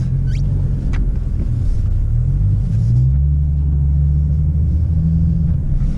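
Diesel engine of a Kenworth heavy truck running, heard as a low steady drone inside the cab; its pitch dips and then climbs to a higher steady note about three seconds in as the engine speed changes.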